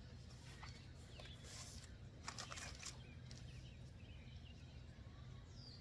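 Quiet outdoor ambience with a few soft clicks and rustles in the first three seconds, and faint distant bird chirps later on.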